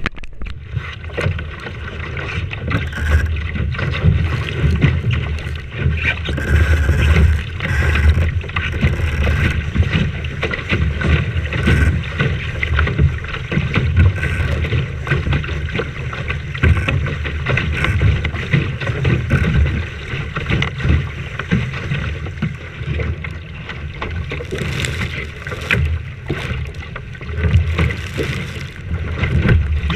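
Strong wind buffeting the microphone aboard a sailing boat, a continuous gusting rumble with the rush of water around the boat beneath it.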